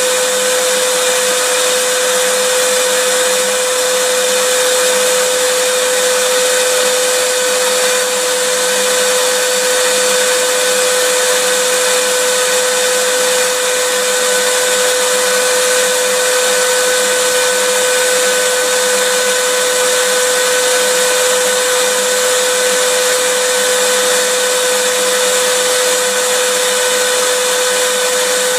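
Vacuum cleaner running continuously: a steady rush of air with a constant motor whine, unchanging in pitch and level.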